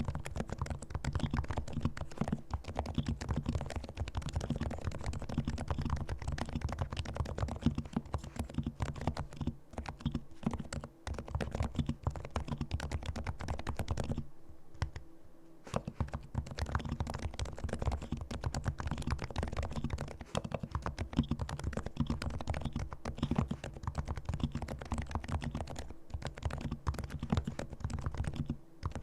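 Fast, continuous typing on a silenced Realforce R2 keyboard with fully lubricated Topre electrostatic capacitive switches. It pauses briefly about halfway through.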